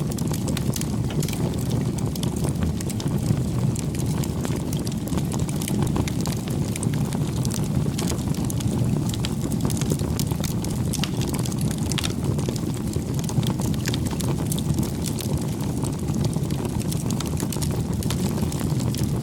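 Wood fire burning: a steady low rumble of flames with frequent small crackles and pops scattered throughout.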